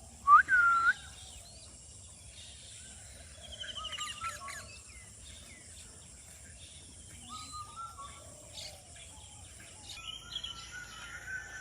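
A parrot calling: one loud, short whistled call about half a second in, then fainter scattered chirps, with the calls coming more often near the end.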